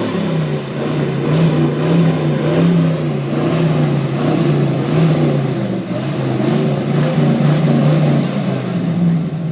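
Car engine revved again and again through a loud flame-thrower exhaust, the pitch swelling and falling about once a second, with short sharp bursts now and then as the exhaust fires.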